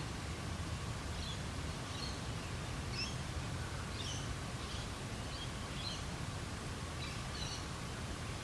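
Birds chirping on and off in the Australian bush, short high calls about once a second, over a steady low background rumble.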